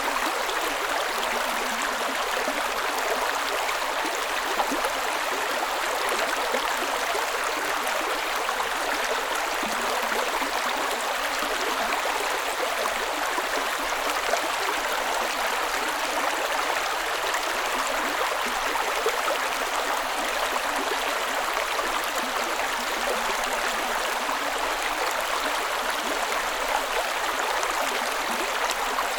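Creek water cascading and gurgling in a steady, even rush, mostly splash and hiss with little deep rumble.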